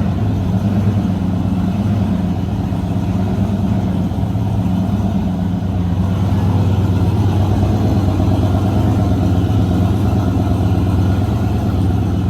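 A car engine running steadily at low revs, a deep even drone with no revving.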